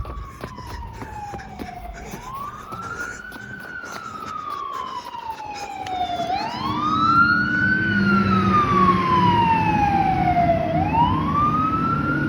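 Fire engine siren wailing, its pitch rising quickly and falling slowly in repeated cycles of about four to five seconds. A low truck engine rumble grows louder about halfway through as the engine comes closer.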